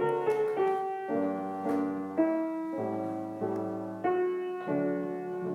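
Background music: a piano playing gentle, slow notes and chords.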